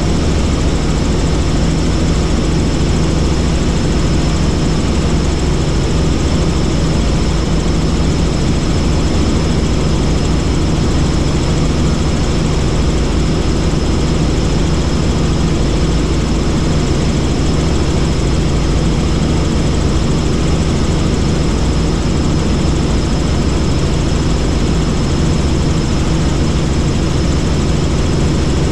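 Helicopter in level flight: the turbine engine and rotors give a loud, steady drone with a constant low hum and a faint high whine.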